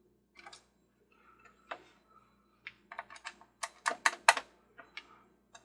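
Irregular light clicks and taps of small plastic parts and screws being handled while a plastic Christmas ferris wheel toy is taken apart, with a quick run of sharper clicks about four seconds in.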